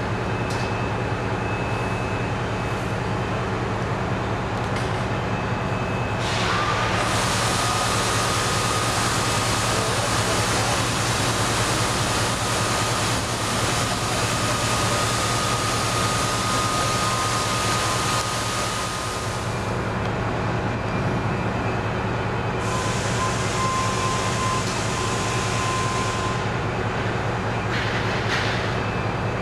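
Train at a station: a steady low throbbing runs throughout, with a loud hissing and a thin high tone from about six seconds in for some twelve seconds, and a shorter hiss again near the end.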